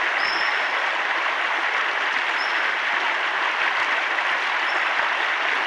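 Steady rush of river water with a few short, high whistles over it, the call cries of a young European otter cub separated from its mother. The whistles come just after the start, about two and a half seconds in, and near the end.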